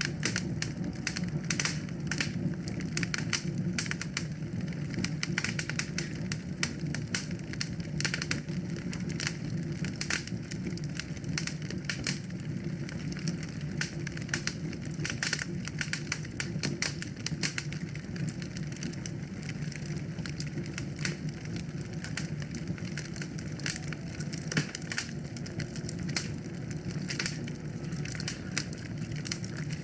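Wood fire crackling in a fireplace: a dense, irregular stream of small pops and snaps over a steady low rumble.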